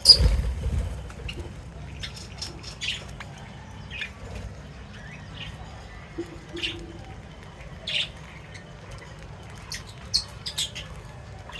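Pet birds chirping and squawking in short, separate calls scattered throughout. A loud thump with a sharp squawk comes right at the start.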